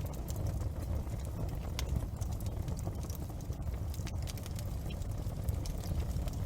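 Large bonfire burning: a steady low rumble of flames with irregular sharp crackles and pops.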